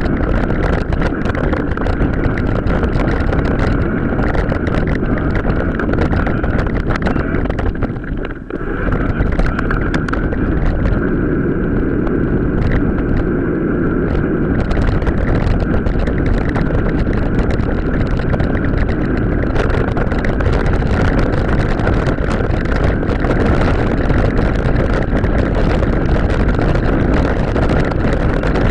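Wind buffeting the microphone during an off-road mountain bike ride, with constant rattling and knocking from the bike over rough ground. There is a brief lull about eight seconds in.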